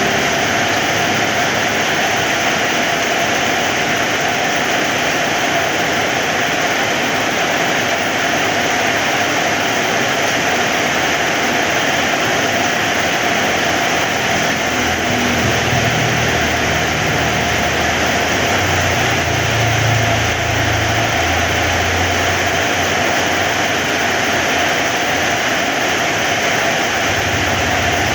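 Heavy rain falling steadily. A low rumble comes and goes about halfway through.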